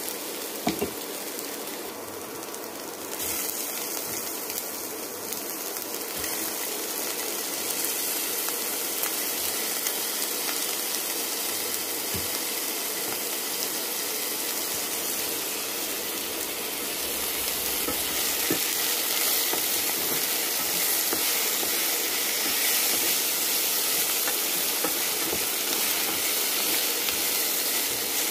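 Onions, green and dried red chillies and whole spices sizzling steadily in oil in a non-stick pan, stirred now and then with a wooden spoon. There are a couple of light knocks in the first second.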